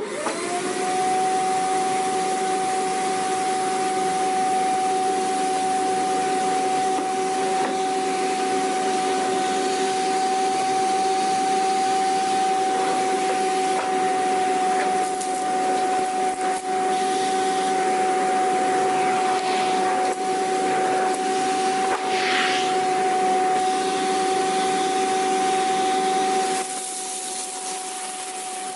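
Vacuum cleaner switched on, its motor winding up within the first second to a steady high whine over rushing air. It runs steadily, with a few brief swishes, then turns quieter and duller near the end.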